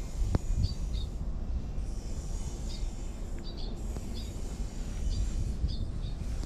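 Small birds chirping in short, high, repeated notes every second or so over a steady low outdoor rumble, with one sharp click about a third of a second in.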